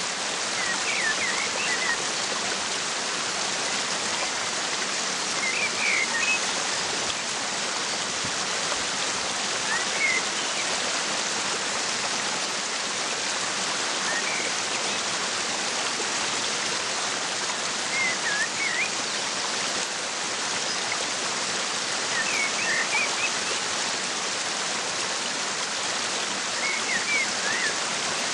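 Steady rush of a waterfall, with a bird's short chirps coming about every four seconds.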